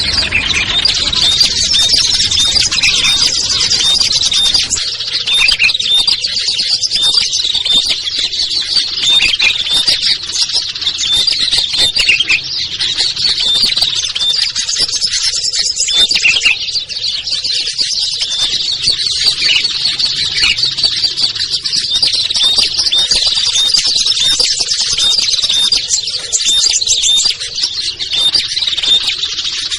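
Dense, busy chorus of many small songbirds chirping and calling over one another, high-pitched and continuous: a lure recording of mixed small birds.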